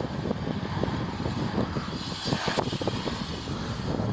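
BMX bike tyres rolling and carving on a concrete bowl, with small clicks and knocks from the bike and wind on the microphone; the rolling swells about two seconds in.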